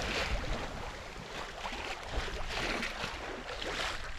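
Water washing along the hull of a sailing yacht under headsail, the hiss swelling and fading every second or so, with wind rumbling on the microphone.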